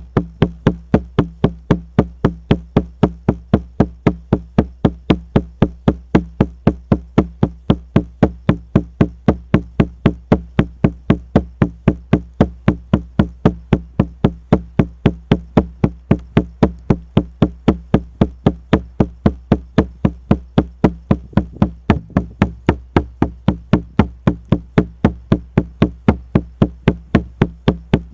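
Shamanic frame drum (buben) beaten in a steady, even rhythm of about three beats a second, each beat a deep boom.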